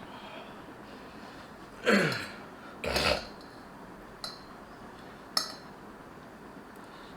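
A person eating spicy instant noodles: two loud short mouth sounds about a second apart, the first falling in pitch, then two light clinks of a utensil against the bowl.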